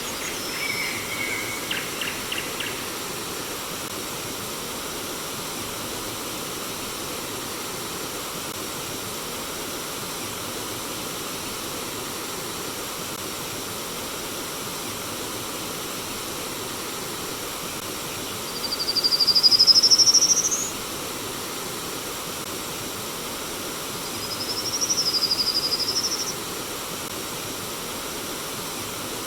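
Steady rush of flowing stream water, with bird calls over it: a few short notes near the start, then a long whistle rising in pitch about two-thirds through, and a second whistle a few seconds later that rises and then dips.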